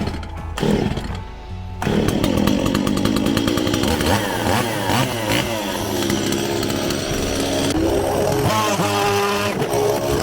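Chainsaw running from about two seconds in, its pitch rising and falling as it revs, with background music under it.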